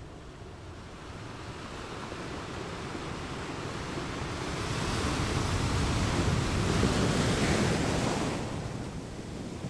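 Wind and choppy sea water rushing against the microphone, a steady noise that builds to its loudest past the middle and eases near the end.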